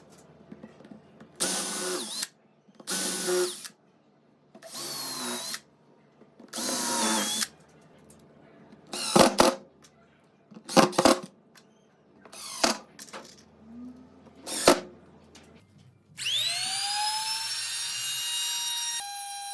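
Power tool motor run in four short bursts of about a second each, then a series of sharp clicks, then a motor spinning up with a rising whine that settles into a steady tone near the end.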